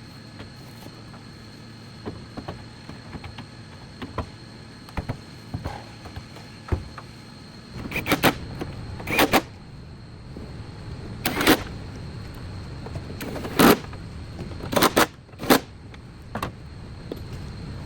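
Scattered light clicks and knocks of workshop work, then six short, loud bursts of noise, each well under a second, spread over about eight seconds.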